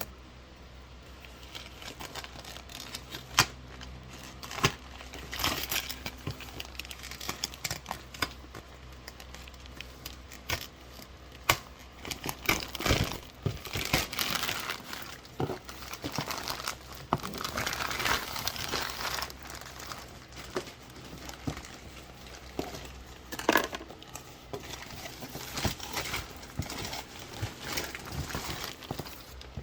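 Packaging being handled: crinkling, rustling and tearing, with scattered sharp clicks and knocks.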